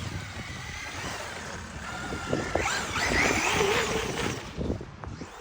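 Traxxas radio-controlled car's electric motor whining, its pitch rising and falling with the throttle, loudest in the middle of the clip, over a steady hiss.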